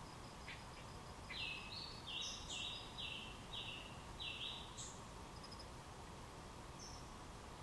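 A small bird singing a run of about six short, high, clear notes, each dropping slightly in pitch, starting about a second and a half in, over a faint steady hiss.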